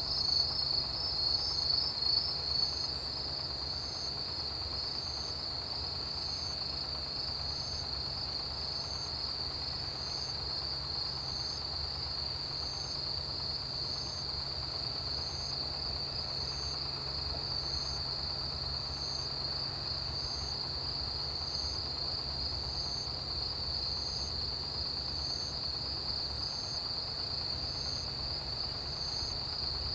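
Autumn grass insects and crickets calling in chorus: a continuous high trill that is louder for the first two or three seconds, with another insect giving a short chirp at a steady pace of a little over once a second.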